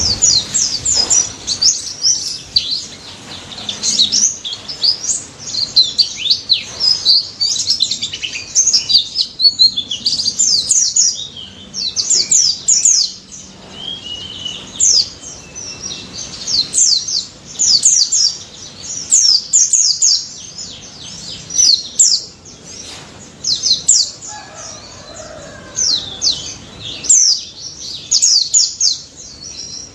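A white-eye (pleci) singing, rapid strings of short, high sweeping chirps in bursts of a second or two with brief pauses between them.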